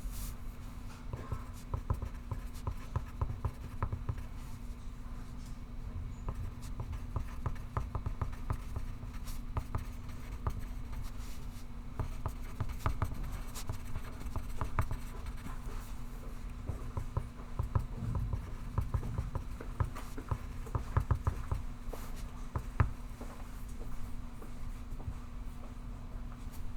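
Pencil scratching on paper in short, irregular strokes, with a few louder strokes now and then, over a steady low hum.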